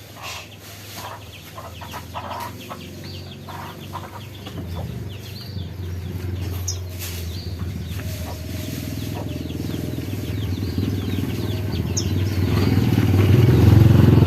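A motorcycle engine drawing nearer, its drone growing steadily louder and loudest near the end, over twittering of small birds and clucking of chickens.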